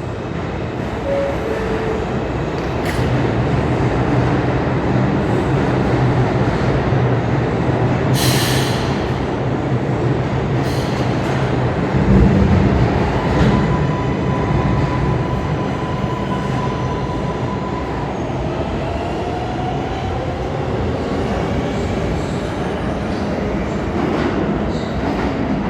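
NYC Subway R142A car running between stations, heard from inside the car: wheel-on-rail rumble and propulsion hum that build as the train picks up speed. A brief high hiss comes about a third of the way in, and a steady whine sounds around the middle.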